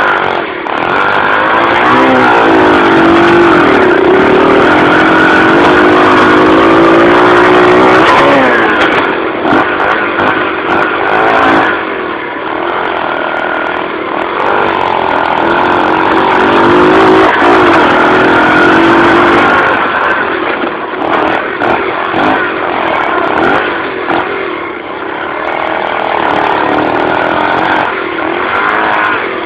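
Dirt bike engine revving hard and easing off over and over, its pitch climbing and falling as the throttle opens and closes, with knocks and rattles from the bike running over rough ground.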